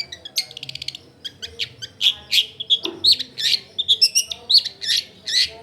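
Long-tailed shrike (cendet) singing in full voice: a quick trill of rapid repeated notes, then from about two seconds in a string of loud, shrill, sweeping calls, several a second.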